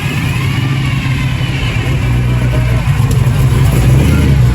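A car engine running at idle close by, a steady low tone that grows a little louder near the end.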